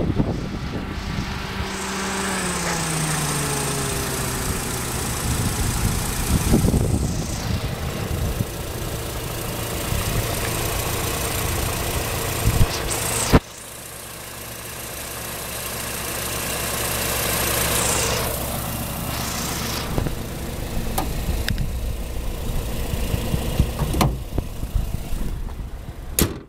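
Nissan MR20 2.0-litre four-cylinder engine idling with the hood open; its idle speed falls and settles about two to three seconds in, then runs steadily. A thump near the end as the hood is shut.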